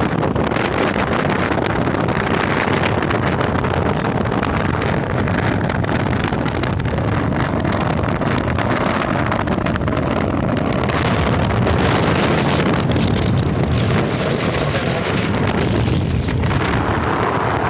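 Wind rushing over the microphone of a moving motorcycle, mixed with the bike's engine and road noise, steady in level.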